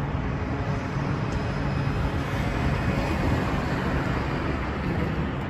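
Steady rushing of sandstorm wind, heavy in the low end, with the rumble of road traffic underneath.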